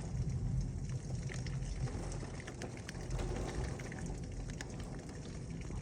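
Heavy thunderstorm rain falling steadily, with scattered close drops ticking and a low rumble underneath.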